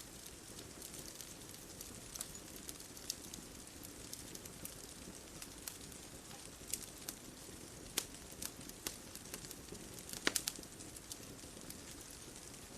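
Bonfire crackling: scattered sharp pops and snaps, with a small cluster about ten seconds in, over a steady low hiss.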